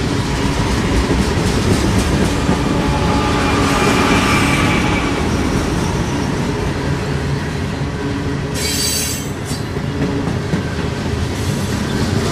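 Train rolling along the track: a steady rumble and clatter of wheels on rails, with a brief high-pitched burst about nine seconds in.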